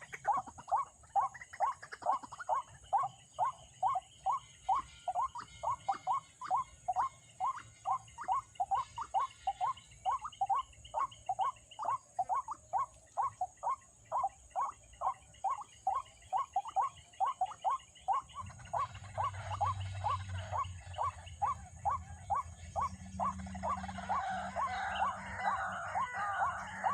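White-breasted waterhen calling: a fast, even series of short croaking notes, about three a second without a break. A low hum joins about two-thirds of the way in, and the calling grows louder and rougher near the end.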